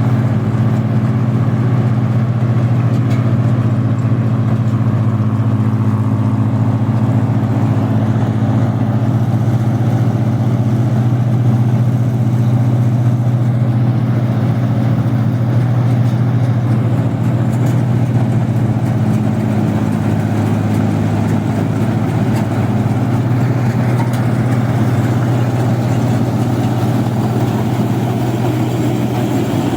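Rice combine harvester's engine and threshing machinery running steadily, a constant low drone that holds the same pitch and level throughout.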